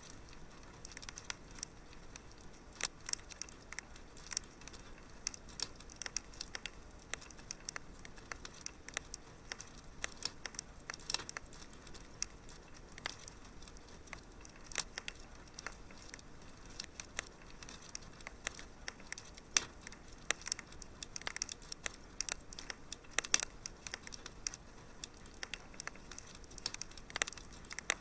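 Wood fire crackling: irregular small pops and snaps, some louder than others, over a faint steady hiss.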